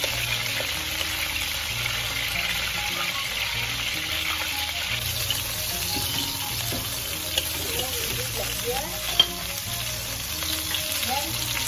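Chicken breast pieces sizzling steadily in hot oil in a stainless steel pan, with a metal ladle stirring and turning them. A few sharp clinks of the ladle on the pan, the loudest about nine seconds in.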